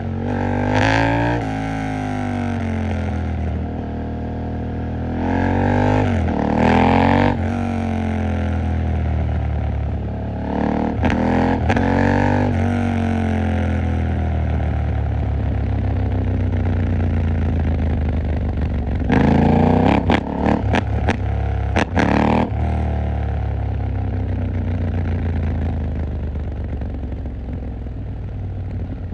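KTM 890 Duke R's parallel-twin engine riding through traffic, its pitch repeatedly climbing and dropping as it accelerates and shifts through the gears. The strongest surges come near the start, about a fifth and two-fifths in, and about two-thirds in, the last broken by a quick string of sharp cracks.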